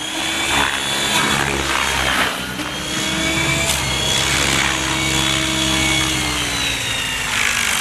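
Gaui X7 electric RC helicopter flying, its motor and rotor whining and sliding in pitch as the head speed changes, falling slowly in the second half.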